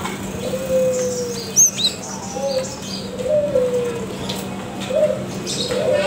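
A bird cooing in low, drawn-out notes that fall in pitch, about five coos, with a few short high chirps about two seconds in.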